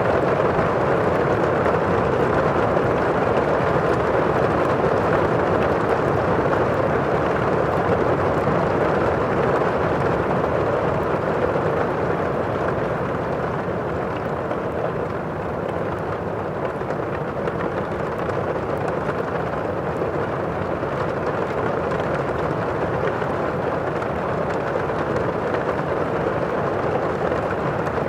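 Thunderstorm ambience: steady heavy rain with a low rumble, easing a little in the middle and then building again, with faint crackling ticks over it.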